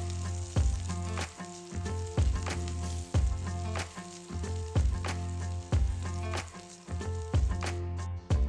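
Food sizzling as it fries in a pan, under background music with a steady beat and bass; the sizzle cuts off suddenly near the end.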